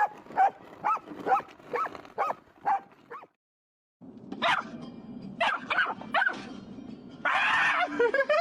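A dog barking in a quick run of short, high barks, about two a second. After a short break there are more barks and a burst of noise near the end.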